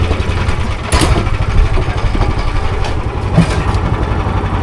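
Boat engine running steadily with a fast, even low pulse. A short sharp knock sounds about a second in.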